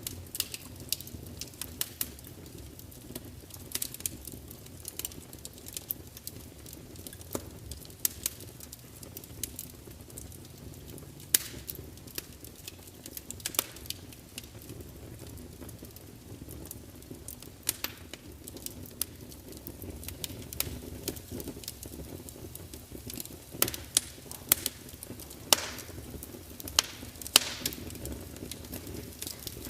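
Wood fire burning in a large fireplace: a steady low rumble of flames with scattered sharp crackles and pops from the logs, several louder pops coming close together near the end.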